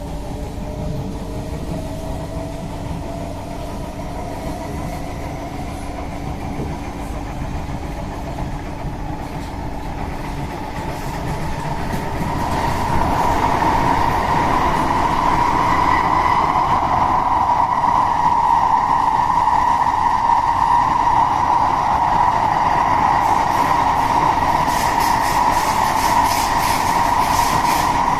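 Singapore MRT C151A train in motion, with a rising whine that climbs in pitch over the first dozen seconds as the train picks up speed. It then holds as a louder, steady whine over rumbling running noise. Rapid faint clicking comes in near the end.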